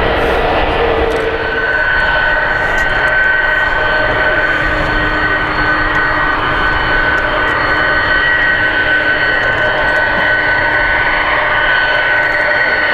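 Jet engines of an arriving Airbus A330-300, running loud and steady with a high whine over a rushing noise.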